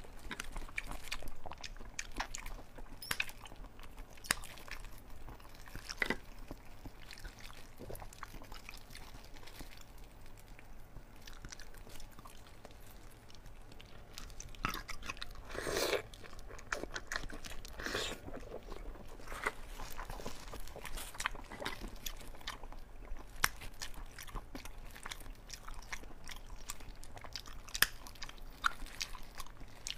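Chewing and biting of soft braised pork belly: a steady run of small mouth clicks, with a louder burst about halfway through. Near the end, scissors snip through a chunk of the pork.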